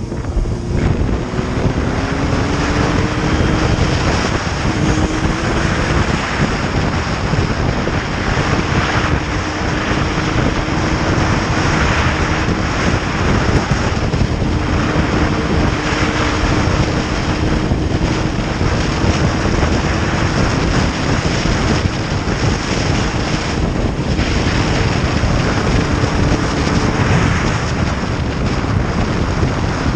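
Motorcycle engine under way, with heavy wind noise on the microphone. The engine note climbs twice in the first few seconds, as if accelerating through the gears, then holds steady at cruising speed.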